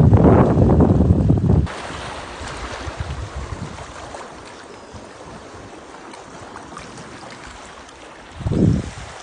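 Wind buffeting the microphone with a loud low rumble, cut off suddenly under two seconds in. It gives way to a softer steady rush of wind and water, with another short gust on the microphone near the end.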